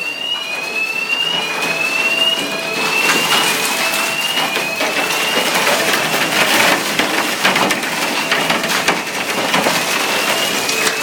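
A fire alarm sounding in short rising sweeps, about one a second, with a lower tone switching on and off, over the dense, continuous clatter of heavy hail pelting down.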